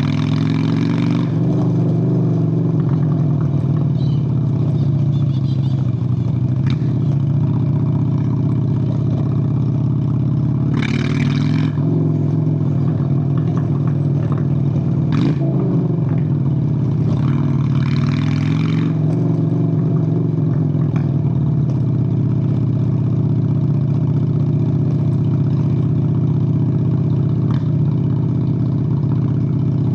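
Honda Shadow VLX 600 V-twin motorcycle engine running under way, its exhaust note steady with a few brief changes in pitch as the revs shift. A few short rushes of hissing noise pass over it.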